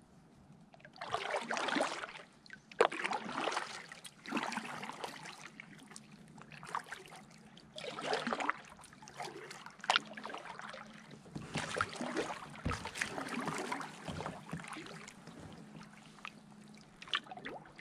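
Kayak paddle strokes: the blades dip and splash in the creek water in a loose rhythm of swells about a second long, with a quieter gap in the middle where the paddling pauses.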